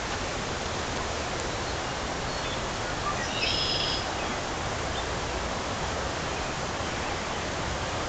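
Harpeth River floodwater rushing steadily, a dense even roar of flowing water, with a brief high chirp about three seconds in.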